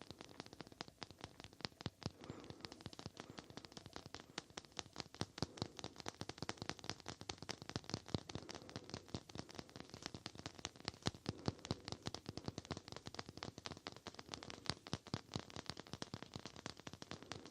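ASMR tapping close to the microphone: many quick, light taps a second in an uneven, continuous flurry.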